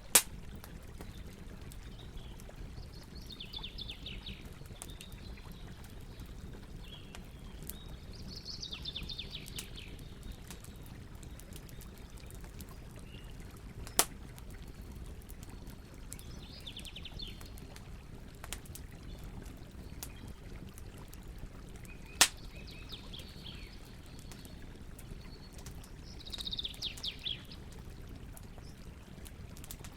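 Campfire crackling steadily over a low rumble of the burning wood, with three sharp loud pops: one at the very start, one about halfway and one about two-thirds in. Short bursts of bird chirping come every few seconds.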